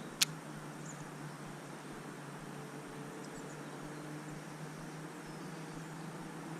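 A single sharp click just after the start, then a faint, steady outdoor hiss with a low hum beneath it.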